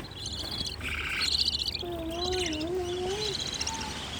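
Baby birds chirping in quick, repeated trilled bursts, with a lower wavering tone for about a second and a half in the middle.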